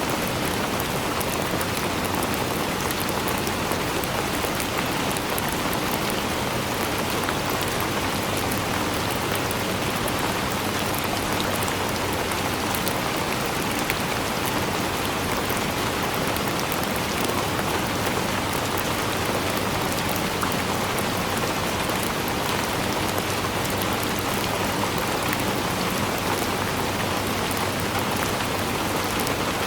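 Steady rain falling and pattering on a surface, with many fine drop ticks over an even hiss.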